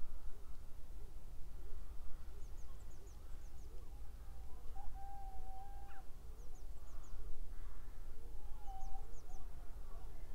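Birds calling across open countryside: short runs of thin, high, falling chirps every few seconds, a held whistled note near the middle and again later, and lower repeated call notes, over a steady low rumble.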